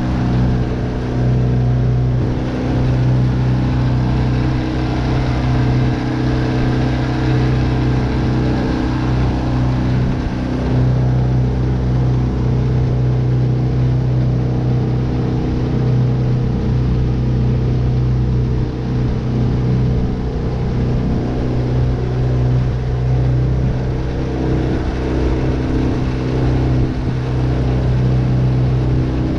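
Tohatsu 9.8 hp four-stroke outboard motor running at a steady speed under way, with a steady hiss of noise beneath the engine note.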